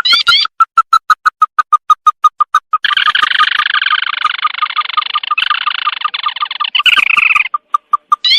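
Crake (tikusan) calls of the kind used as a bird-lure track: a fast run of short, clear, even notes about five a second. From about three seconds in a dense chattering trill joins them and stops shortly before the end. Upswept notes come at the very start and again at the end.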